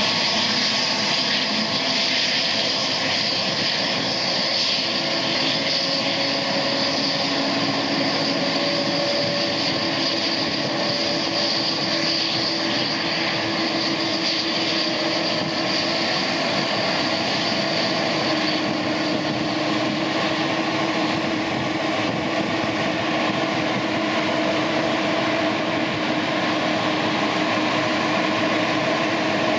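Boeing 777-281ER's jet engines running steadily: an even rush of engine noise with a high fan whine and lower held tones, neither building nor fading.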